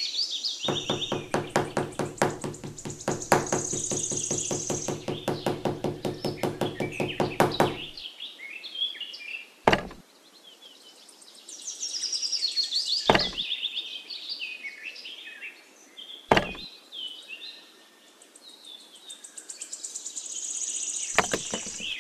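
Birds chirping and twittering, with a fast run of knocks, about five a second, for roughly seven seconds, then four single sharp knocks a few seconds apart.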